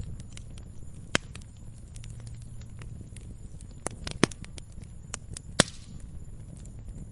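Log fire crackling in a fireplace: a scatter of small ticks with a few sharp pops, the loudest about four and five and a half seconds in, over a low steady rumble of the burning.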